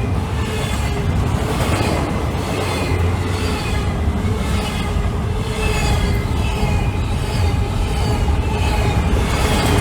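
Freight train rolling past: a steady low rumble of steel wheels on rail, with a high swish that repeats roughly once a second as the cars go by.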